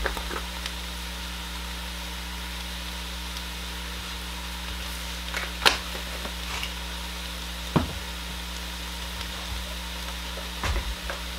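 Mashed potatoes, onion and garlic sautéing in butter and olive oil in a pot: a steady low sizzle, with a few short sharp clicks partway through.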